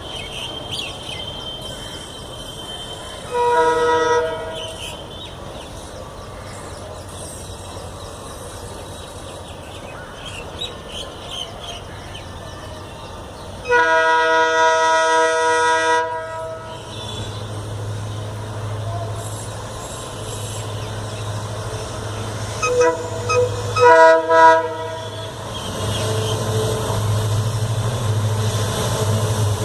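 WDP-4D (EMD GT46PAC) diesel locomotive sounding its multi-tone horn: a short blast about three seconds in, a long blast of about two seconds near the middle, then a few quick short blasts. Under the horn, the locomotive's low engine drone grows steadily louder as it comes on under power.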